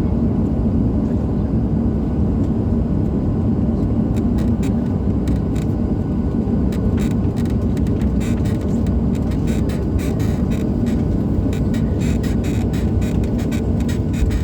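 Boeing 737-800 cabin noise: a steady loud rumble from the CFM56 engines and the rolling airframe, with rattling clicks of cabin fittings that grow denser from about four seconds in.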